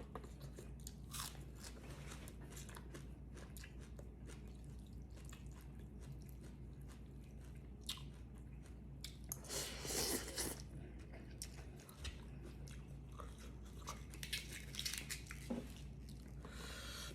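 A person chewing and crunching food close to the microphone, a series of short crisp crunches with a louder stretch of crunching about ten seconds in.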